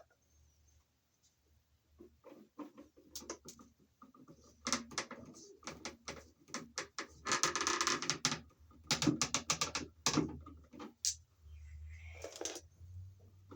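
A twist-on wire nut being screwed by hand onto two stripped wires: a run of irregular small clicks and scrapes starting about two seconds in, with a longer rustle near the middle.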